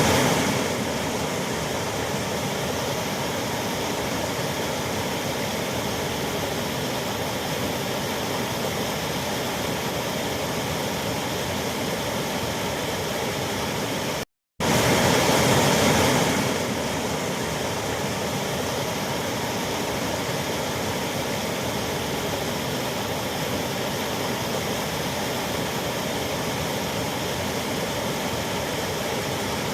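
Waterfall rushing: a steady, even roar of falling water. It cuts out briefly about halfway through and comes back slightly louder for a second or two before settling.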